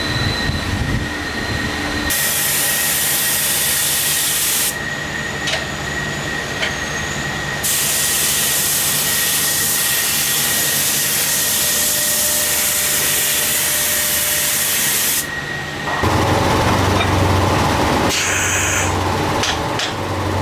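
Factory machinery running with a steady high whine, broken by two long loud hisses like a blast of air or spray, the second lasting about seven seconds. Near the end the whine stops and a lower machine hum with clattering takes over.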